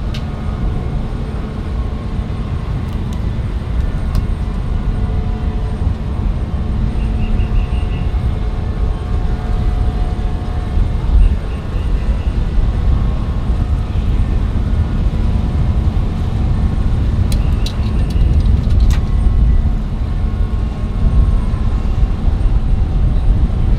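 Jet airliner engines, a deep steady rumble with faint whining tones running through it.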